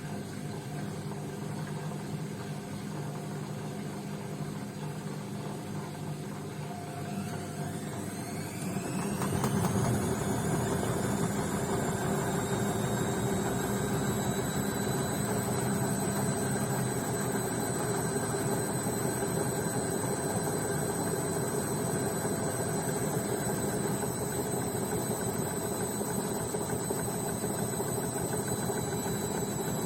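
Beko washing machine's motor speeding up into a spin: a rising whine about a quarter of the way in that levels off into a steady high whine over a louder, steady drum hum.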